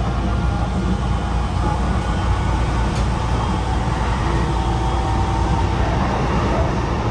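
Sotetsu 20000 series electric train heard from inside the passenger car, running steadily at speed: a constant rumble of wheels on rail with a faint steady whine above it, as the train runs into a tunnel.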